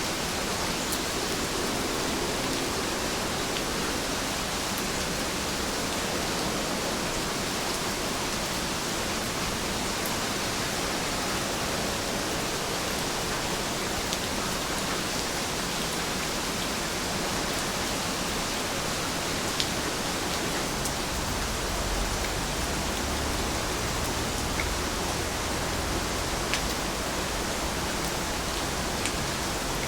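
Steady rain falling in an even hiss, with a few faint drop ticks. A low rumble comes in about two-thirds of the way through.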